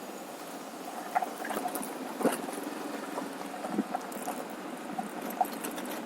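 Motorcycle on the move: a steady mix of engine and wind noise, with scattered short clicks and taps.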